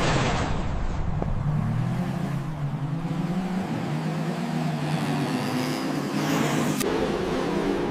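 Radio-controlled construction vehicle running, a low engine-like drone that rises and falls in pitch as it works, with a faint high whine midway and a single click near the end.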